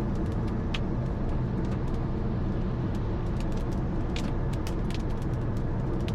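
Car driving, heard from inside the cabin: a steady low rumble of engine and tyres on the road, with many irregular sharp ticks over it.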